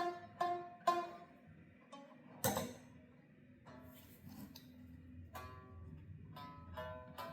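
Strings of a plucked string instrument sounded one note at a time, each note ringing and fading, as in tuning. Three quick plucks open it, a sharp click comes about two and a half seconds in, and after a pause a few more single plucks follow.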